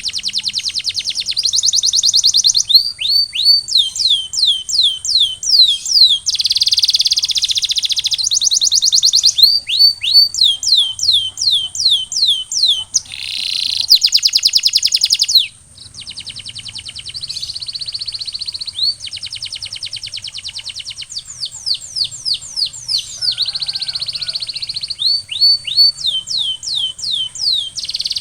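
Male canary singing: rapid trills alternate with runs of repeated downward-sweeping whistled notes. The song breaks off briefly about halfway through. A thin, steady high tone runs underneath.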